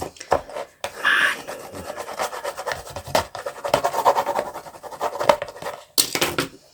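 Paper craft pieces being handled: a run of rubbing and scratching with many small clicks, loudest about a second in and again near the end.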